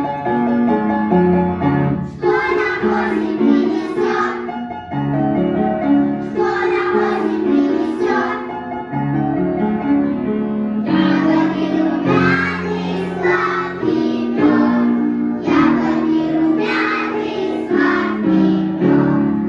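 A group of young children singing a song in short phrases over a keyboard accompaniment. The keyboard plays on through the pauses between the sung lines.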